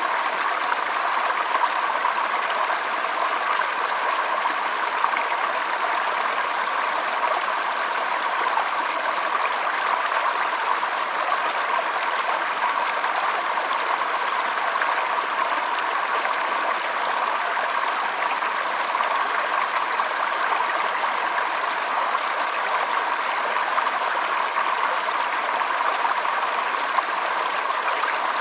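Running water of a stream flowing and trickling, steady and unbroken throughout.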